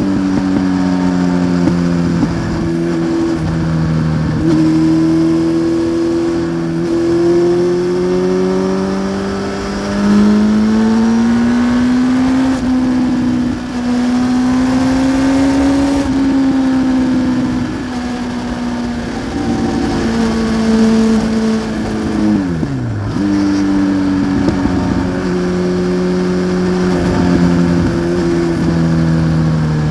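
A 1993 Honda CBR900RR Fireblade's inline-four engine runs through a Remus aftermarket exhaust while the bike is ridden. The engine note climbs and eases off as it pulls through the gears, and drops sharply in pitch about two-thirds through before climbing again.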